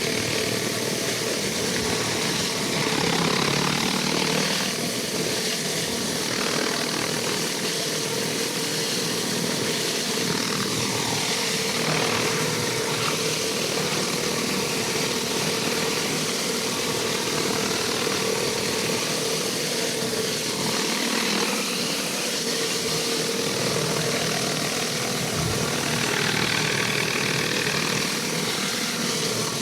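Pressure washer running steadily: an even engine drone with a constant hiss over it, with no break or change.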